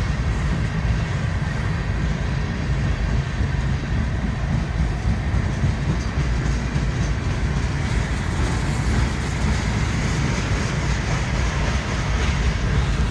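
Long freight train's cars rolling past on the rails, a steady low rumble with no pauses.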